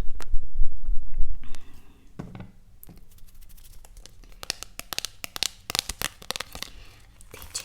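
Close-miked handling noise: a low rumble for the first second and a half, then a run of fast, irregular crackling clicks from packaging being crinkled.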